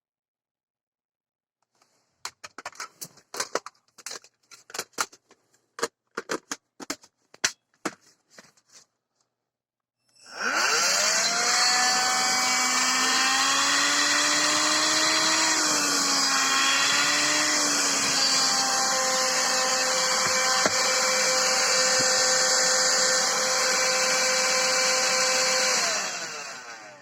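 Scattered plastic clicks and handling, then the Electrolux ZB3104 14.4 V cordless stick vacuum's motor spins up with a rising whine, runs steadily for about fifteen seconds and winds down near the end. It is a test run on its newly replaced lithium battery pack.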